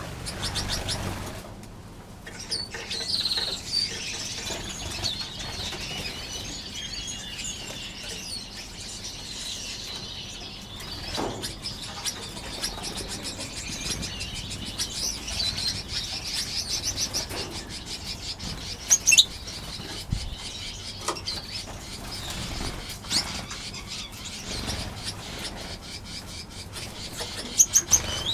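Many small aviary finches chirping continuously in high, short notes, with wings fluttering as birds fly between perches and a few sharp clicks.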